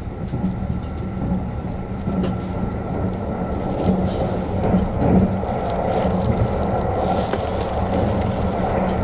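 Cabin noise inside a Kintetsu Hinotori limited express train under way: a steady low hum with rolling wheel-and-rail noise that grows louder and rougher from about four seconds in as the train gathers speed.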